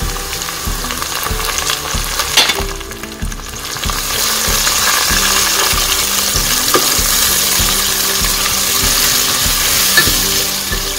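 Sliced onions and ginger-garlic paste sizzling in hot oil in a pot while a wooden spatula stirs and scrapes through them. The sizzle grows louder about four seconds in.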